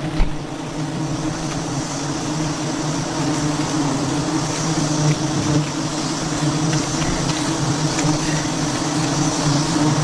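A swarm of bees buzzing around a wild honeycomb in a steady, continuous drone.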